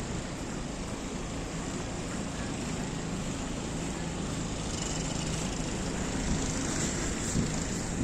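Steady outdoor city noise with the low hum of a vehicle engine running. Hiss builds from about halfway, with a few crackles near the end.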